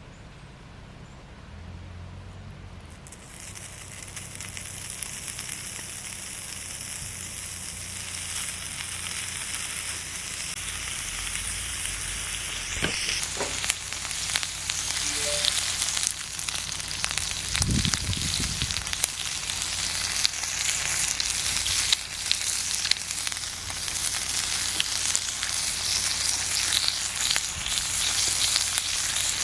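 Food sizzling and frying on a hot iron grill plate. The sizzle starts a few seconds in and grows steadily louder, with dense crackling and spitting from about halfway through.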